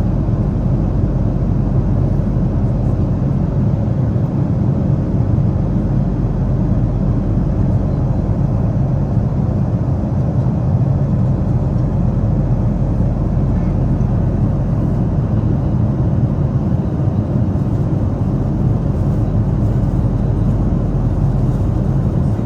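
Steady engine and airflow noise of a Boeing 777 airliner heard inside the passenger cabin, a deep even rumble with no change in pitch or level.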